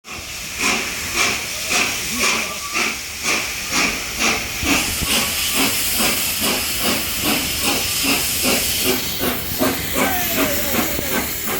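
LNER Peppercorn A1 class Pacific 'Tornado', a three-cylinder steam locomotive, starting away with a train. Its exhaust chuffs come steadily faster as it gathers speed, over a constant hiss of steam.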